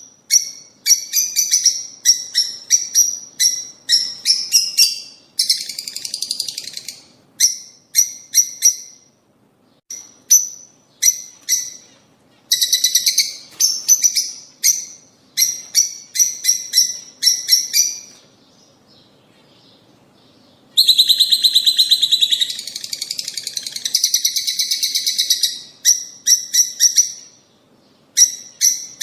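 Lovebirds, peach-faced and Fischer's, chirping in quick runs of sharp, high calls. After a pause of about three seconds past the middle comes a dense stretch of chattering before the chirp runs resume.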